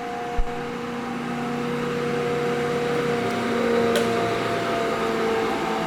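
Northfield No. 7 25-inch planer running under its 7.5 hp direct-drive motor: a steady hum with several held tones, slowly getting louder. The feed is at its slowest crawl, so the rattle of the speed control, which rides on a plain bearing, has died down. A short low thump about half a second in.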